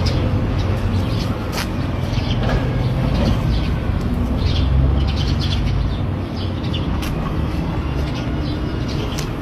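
A bird chirping in short, scattered notes over a steady low rumble.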